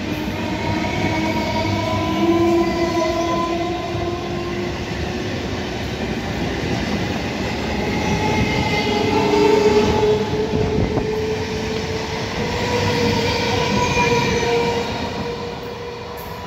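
BEML-built electric local train running slowly past, with a steady rumble and hiss of the coaches and faint whining tones that rise slowly in pitch.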